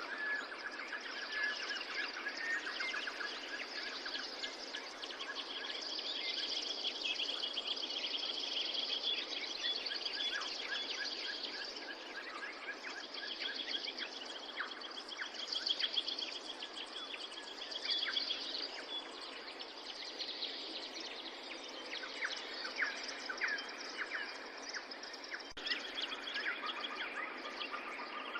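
Many small birds chirping and trilling in quick, high repeated notes over a steady background hiss.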